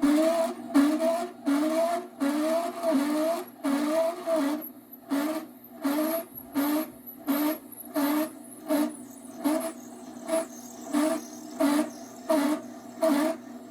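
Bone-fiber grinder's cutting head running as a pneumatic cylinder pushes a piece of cortical femur bone into it at 50 psi, cutting bone fibers. A steady machine hum with a regular pulse, a little under twice a second.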